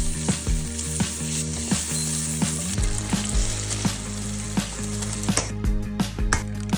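Sucuk and eggs sizzling in a hot frying pan, with a dense hiss that stops suddenly about five seconds in. Background music with a steady beat plays underneath.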